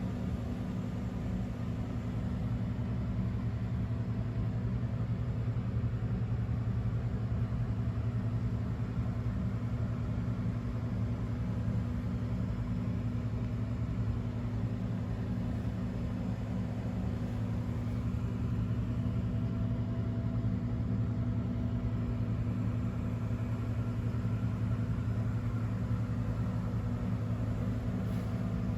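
Honda CX650 Turbo's V-twin engine idling steadily at an even low hum, with no revving.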